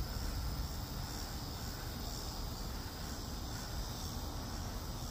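Steady chorus of crickets, with a constant low rumble underneath.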